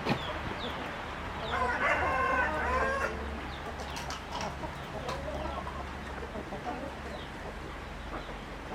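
A rooster crows once, a call of about a second and a half, with softer clucking and short high chirps around it.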